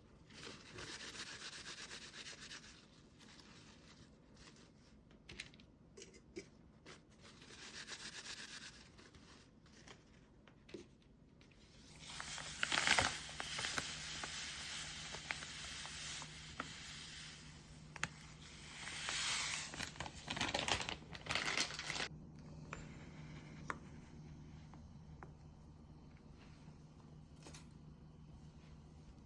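Rubbing and scratching sounds in several stretches, the longest and loudest about halfway through, with a low steady hum that starts about twelve seconds in.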